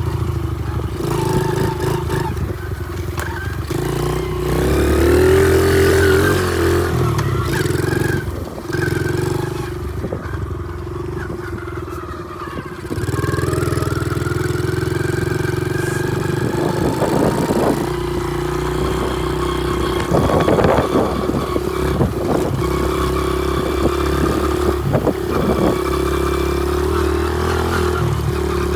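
Honda XR70 pit bike's small single-cylinder four-stroke engine running as it is ridden. It revs up about five seconds in, eases off for a few seconds, then runs steadily. Clattering knocks come through now and then, several about two-thirds of the way through.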